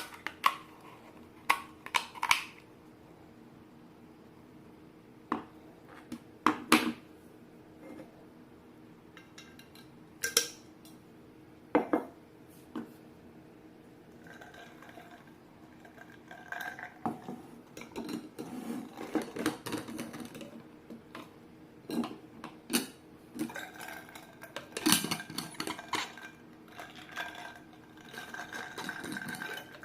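Zojirushi food jar and its lid parts being handled: separate sharp clicks and knocks, then denser clattering and rattling from about halfway in, over a faint steady hum.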